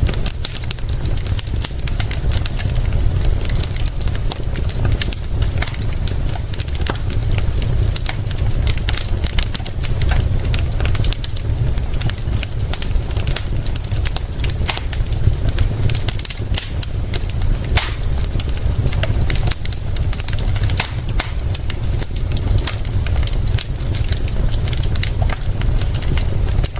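Wood fire crackling with many sharp, irregular pops, over a steady hiss of rain and a constant low rumble.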